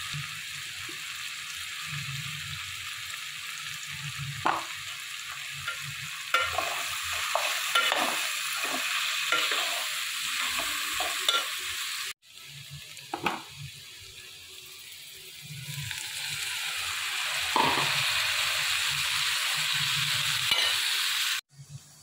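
Diced potatoes and onions sizzling in hot oil in a metal pot, stirred with a metal slotted spatula that scrapes and clicks against the pot in a run of strokes. The sizzle drops away abruptly about halfway through, then builds back up.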